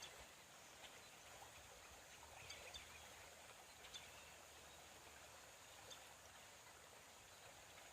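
Faint, steady flow of creek water, with a few soft, short high ticks about two and a half, four and six seconds in.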